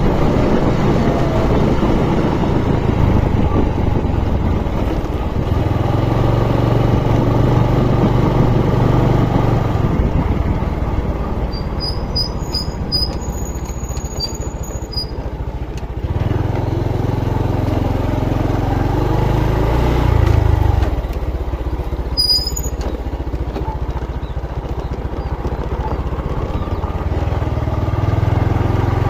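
Motorcycle engine running on the move, its pitch shifting as the rider speeds up and slows, with a rise about two-thirds of the way through and then a drop. A few brief high chirps sound about halfway through.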